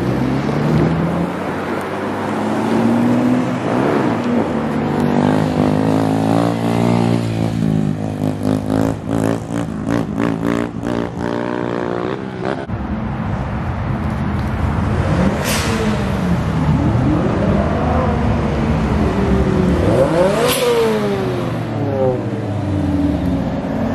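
Several high-performance car engines revving and accelerating away one after another, their pitch climbing and dropping through gear changes. A quick run of sharp crackles comes near the middle. Cars pass close by twice in the second half, the later one a Lamborghini Gallardo.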